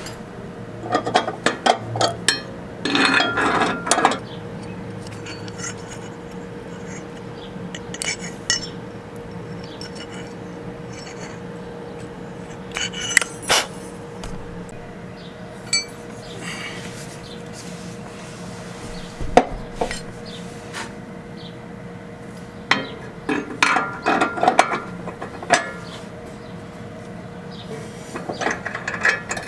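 Metal hand tools clinking and clattering against the steel parts of a riding mower's deck lift linkage during repair, in scattered bursts with quiet gaps between, over a faint steady hum.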